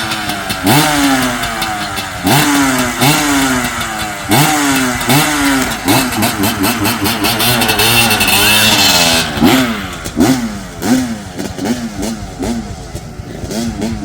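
Two-stroke Kawasaki 250 motocross bike's engine revved in repeated short blips, each rising sharply and falling away, coming faster near the end.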